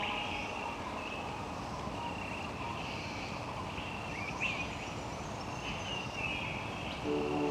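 Rainforest ambience: a steady hiss with repeated high bird calls and chirps, including a few sweeping whistles about halfway through. Soft ambient music comes back in near the end.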